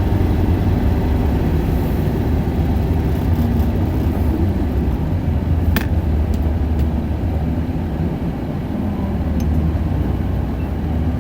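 Isuzu Erga city bus's four-cylinder diesel engine running steadily under way, heard from inside the cabin along with road noise. There is a single sharp click about six seconds in.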